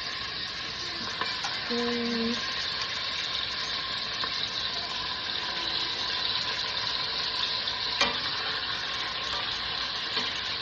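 Chicken legs sizzling steadily as they brown in hot avocado oil and butter in a pot. A brief low tone sounds about two seconds in, and a single sharp click comes past the middle.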